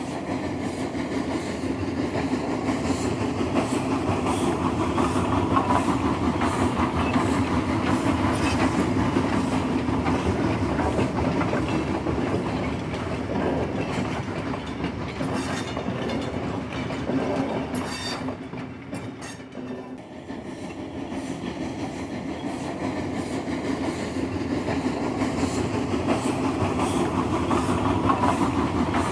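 Train running along jointed track, wheels giving a steady clickety-clack over the rail joints, briefly quieter about two-thirds of the way through.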